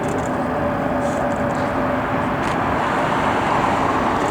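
Jet aircraft engines running: a steady rushing noise with a faint steady whine that fades about two seconds in.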